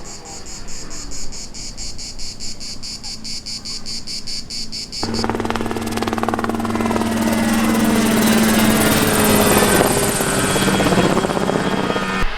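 Insects chirping in a fast, even pulsing rhythm, about six pulses a second. About five seconds in, a rally car's engine cuts in, running hard and growing louder as the car approaches.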